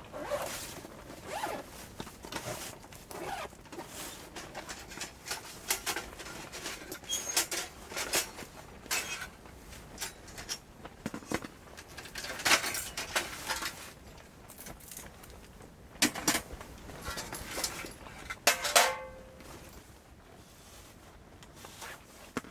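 Irregular rustling, clicks and light knocks, a denser rustle about halfway through, and a short squeak a few seconds before the end.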